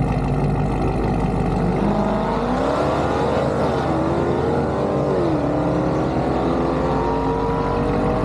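Drag-racing car's engine accelerating hard, its pitch climbing, dropping back at two gear shifts about three and a half and five seconds in, then pulling steadily higher.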